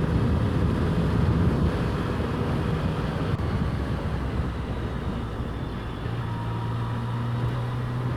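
Motorcycle engine running at road speed under wind noise on the rider's microphone. About six seconds in the engine note drops and settles into one steady, lower tone.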